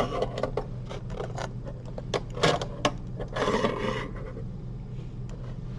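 Small clicks and scraping from surgical instruments being handled while suturing, with a few sharper clicks in the first four seconds over a steady low electrical hum.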